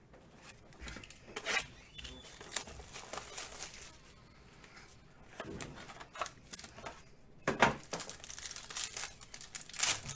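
Trading-card pack wrappers and cards being handled, with irregular crinkling and tearing strokes: a box of baseball cards being opened. The loudest tear comes about seven and a half seconds in.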